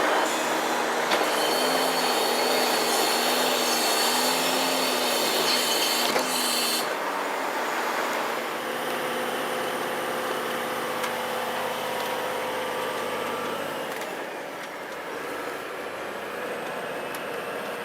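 Heavy truck running, a steady mechanical noise with a rising-and-falling whine repeating about once a second. The sound changes character about seven seconds in and grows quieter about fourteen seconds in.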